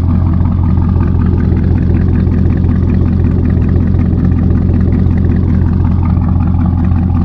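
Chevrolet Camaro ZL1's supercharged 6.2-litre V8 running steadily at idle after a start-up, with a deep, even exhaust note.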